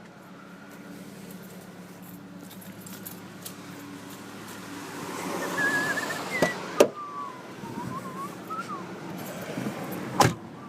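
Steady low hum in a pickup truck's cab with a jingle of keys and sharp clicks near the start, about seven seconds in and near the end. A warbling, whistle-like tone comes and goes in the middle.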